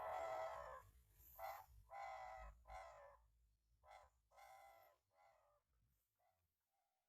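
A bird calling: a series of short, repeated pitched calls, about seven over the first five seconds, growing fainter.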